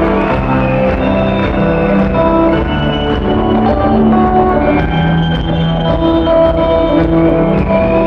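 Rock band playing live: an instrumental passage of held keyboard chords with guitar and drums.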